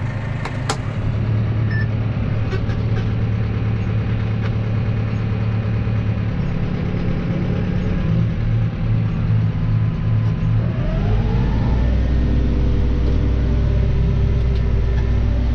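Claas Arion 530 tractor engine running steadily, with a couple of sharp clicks in the first second. About two-thirds of the way through the revs rise, and the engine then holds at the higher speed with a deeper, heavier hum.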